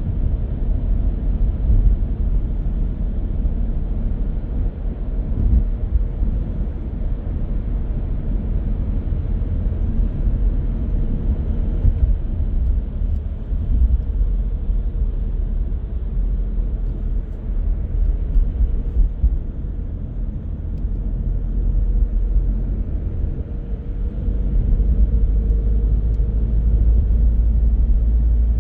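A car driving on the road: a steady low rumble of tyres and engine, growing louder about three-quarters of the way through.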